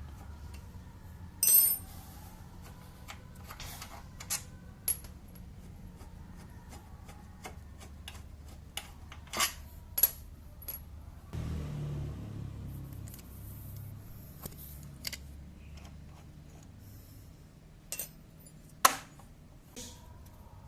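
Metal tools and small brake parts clinking and tapping in scattered, irregular knocks during rear brake caliper work on a Honda ADV160 scooter, over a low steady hum. The sharpest clinks come about a second and a half in and again near the end.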